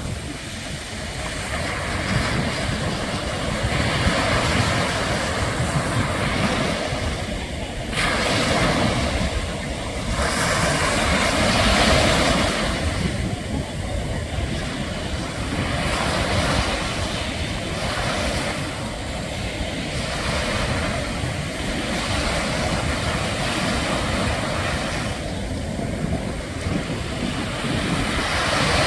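Ocean surf breaking in repeated swells every few seconds, with wind rumbling on the microphone; a single sharp click about eight seconds in.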